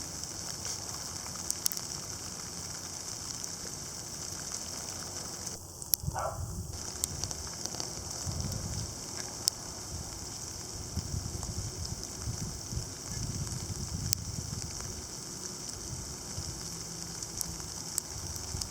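Sleet mixed with snow falling steadily: a constant hiss scattered with small sharp ticks of ice pellets hitting surfaces, over an uneven low rumble.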